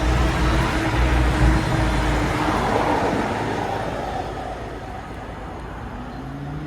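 Diesel train running close by, a heavy low rumble with a steady engine tone, fading away after about two seconds as it moves off.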